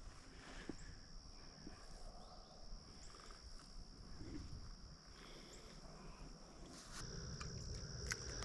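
A chorus of insects giving a faint, steady, high-pitched trill that grows louder about seven seconds in, with a few light clicks.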